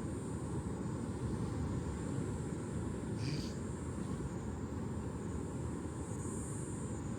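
Distant ocean surf making a steady low rumble, with a thin high hiss above it. A brief high chirp sounds about three seconds in.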